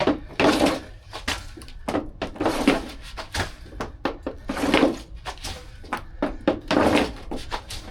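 Irregular knocks, thuds and scuffs from a stick and ball on a hard floor, several a second, echoing in a small room.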